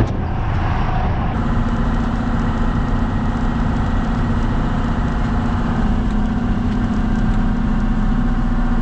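Farm tractor engine running steadily, a dense low rumble with a steady hum that sets in about a second and a half in.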